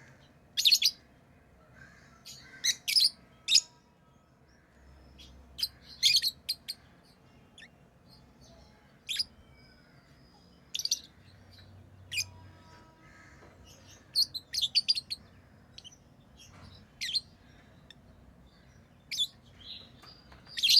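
Pet lovebirds chirping: short, sharp, high-pitched calls, some single and some in quick runs of two to four, coming every second or two.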